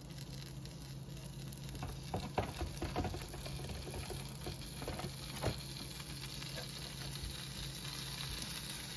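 Deli turkey slices sizzling on a hot electric griddle coated with butter cooking spray: a steady fizz with scattered small pops.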